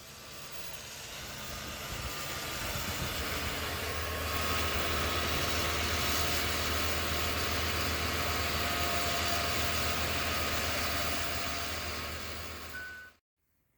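A motor vehicle running, with a steady low engine hum under a wide hiss, building up over the first four seconds and then holding steady before cutting off abruptly near the end.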